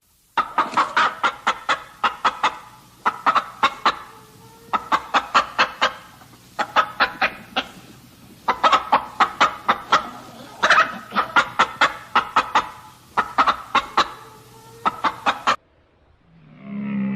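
Chicken clucking in rapid runs of short, sharp calls, about eight runs a couple of seconds apart, cutting off abruptly near the end.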